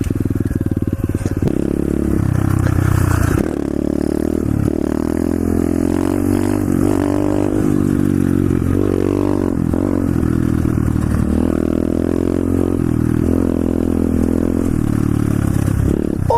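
125cc SSR pit bike's single-cylinder four-stroke engine running under way, its pitch rising and falling with repeated throttle changes and shifts. There is a step down in level about three and a half seconds in.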